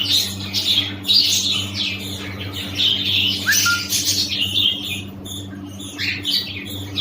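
Several budgerigars chattering and warbling, a busy stream of short chirps and squawks that never pauses, over a steady low electrical hum.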